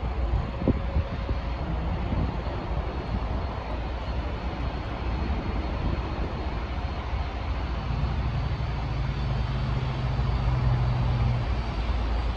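Steady rushing engine noise, with a low hum joining in about eight seconds in and fading near the end.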